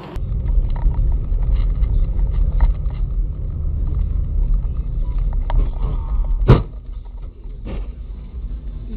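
Steady low rumble of a car on the move, with small knocks, then one loud sharp impact about six and a half seconds in, after which the rumble drops off; a second, weaker knock follows about a second later.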